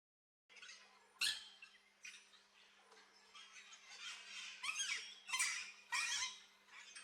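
Parrots in an aviary give a run of short squeaks and squawks, thickest from about four to six seconds in. There is a sharp knock about a second in and a steady low hum underneath. The sound drops out for half a second at the very start.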